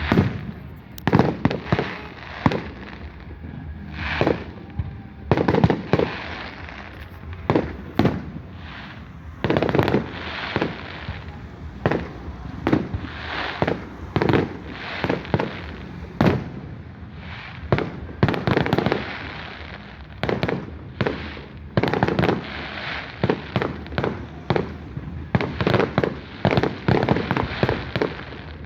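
Fireworks display: a continual run of loud bangs, irregular and often several a second, over a steady crackle.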